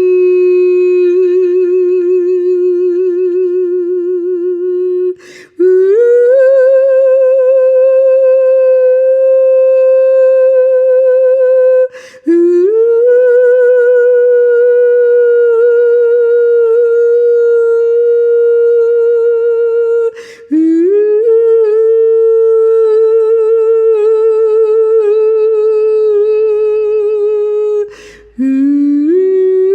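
A single voice toning long, sustained notes with a slow vibrato. There are five held tones, each several seconds long, separated by four short breaks for breath. Each new note slides up from below into its pitch, and the later notes sit a little higher than the first.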